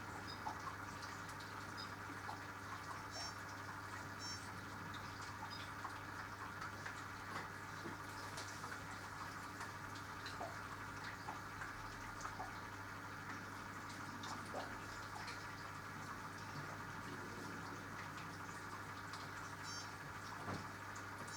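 Minicolo mini washing machine partway through a gentle bra-programme wash at 40°C: a steady low hum with water sounds and scattered small clicks and drips.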